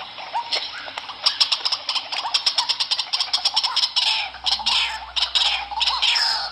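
White-breasted waterhen calling. It starts with a fast run of short, sharp repeated notes about a second in, then from about four seconds in gives longer calls that fall in pitch.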